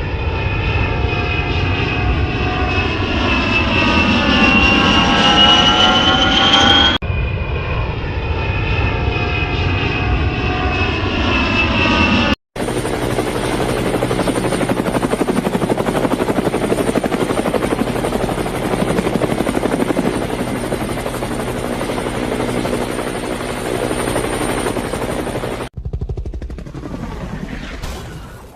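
Helicopter engine and rotor noise, spliced together from several recordings with abrupt cuts. In the first part a whine rises in pitch over the rotor and engine noise. After the cuts comes a steady rotor and engine drone, which fades out near the end.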